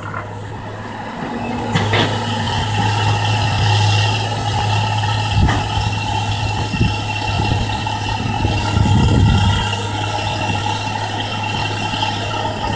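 Kobelco excavator's diesel engine running steadily, swelling louder twice as it works. A few sharp knocks come through over it.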